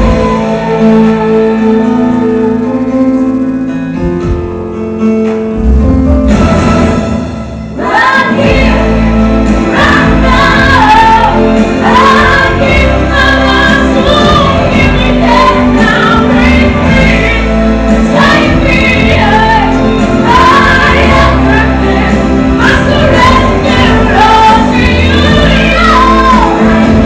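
A young female singer performing a song over loud accompaniment with backing voices. The first several seconds are mostly held notes, and her melody comes in more busily about eight seconds in.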